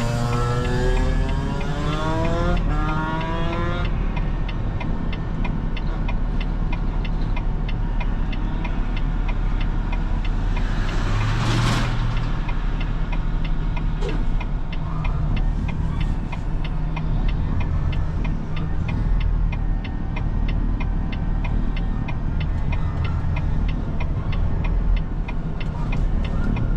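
Semi truck's diesel engine idling steadily, heard from the cab, with a faint, evenly spaced ticking throughout. Rising pitched tones sound in the first few seconds, and a brief hiss comes near the middle.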